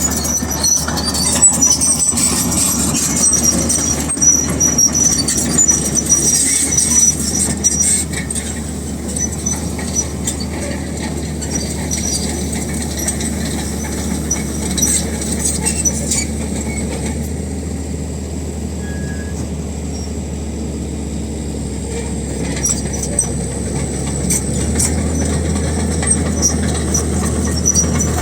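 Crawler bulldozer working: its diesel engine runs steadily under the high squeal and clanking of its steel tracks. The squealing is strongest in the first several seconds.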